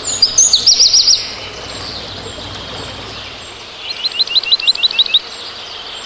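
Bird calling: a quick run of about six high chirps in the first second, then a second run of about nine short, hooked chirps in the second half, over a steady background hiss.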